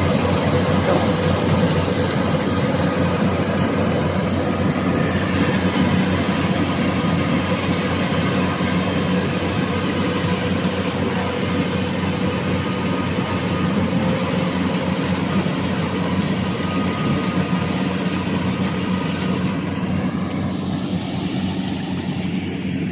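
An engine running steadily at an even speed, a continuous mechanical drone with a steady low hum.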